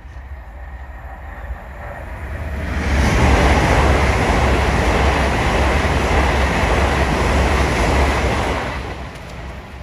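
LNER Azuma electric train passing through a level crossing at speed. The rush of wheels on the rails swells in about three seconds in, holds loud for about five seconds, then dies away near the end.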